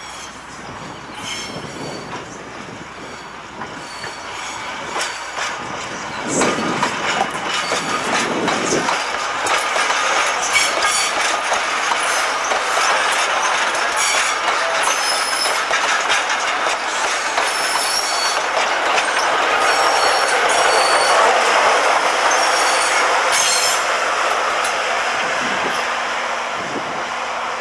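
Diesel-hauled train rolling along the track: a high-pitched wheel squeal and repeated clicking of wheels over the rail, growing louder through the middle and easing off slightly near the end.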